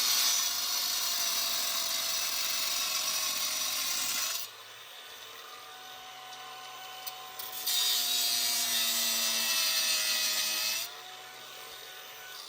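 Ridgid angle grinder cutting metal in two spells, the first about four seconds long and the second starting about halfway through, with a gap where it runs lighter. Its motor whine sags slowly in pitch under load and picks back up near the end as the cut lets go.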